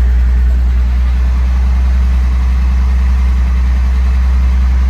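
1964 Mercedes-Benz 230SL's 2.3-litre fuel-injected straight-six idling steadily with a deep, even exhaust note, still cold just after a cold start.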